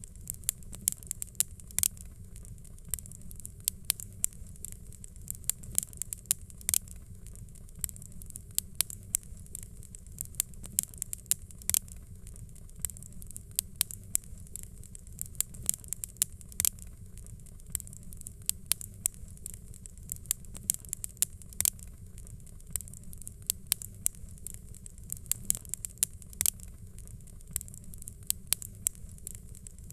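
Fireplace fire crackling: frequent irregular sharp pops and snaps over a low, steady rumble.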